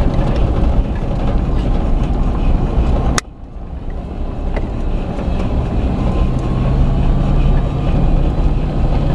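Road and engine noise of a vehicle on the move, a steady low rumble. About three seconds in it drops suddenly after a click and builds back over the next couple of seconds, and later a steady engine hum comes up and rises slightly in pitch.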